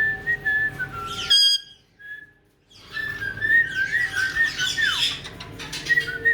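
Caique parrots whistling and squawking: short whistled notes and downward-sliding whistles mixed with harsh squawks. A sharp loud call comes about a second and a half in, and the sound drops to near silence for about a second before the whistling and squawking resume.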